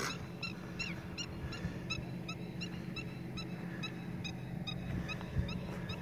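A bird calling over and over in short, clipped notes, about three a second, with a low steady hum underneath.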